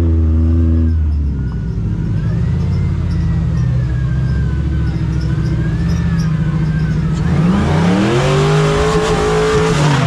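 Off-road 4x4's engine running under load, then revved hard about seven and a half seconds in, its pitch rising, with a loud rushing noise alongside that dies away near the end.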